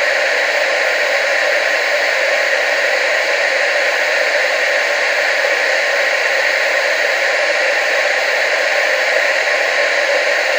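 Television static: a steady, even hiss with no breaks or changes, weighted toward the middle and upper range with little bass.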